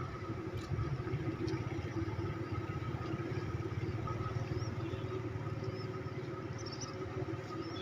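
A steady engine running: a low, even rumble with a constant hum.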